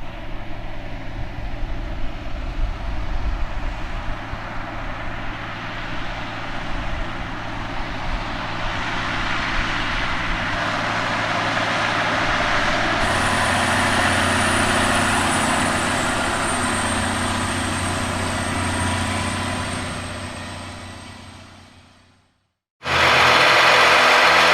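Large John Deere tractor's diesel engine running steadily, growing louder through the middle. It fades out about 22 seconds in, and after a brief gap another loud engine sound starts abruptly.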